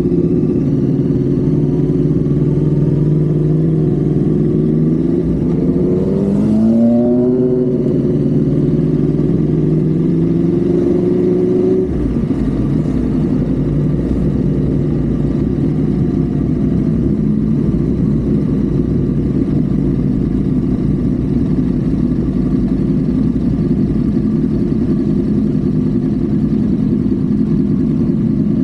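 Car engine and road noise at highway speed, heard from inside a Honda Civic FD. The engine note climbs once about six seconds in. About twelve seconds in it changes abruptly to a steadier, noisier rumble.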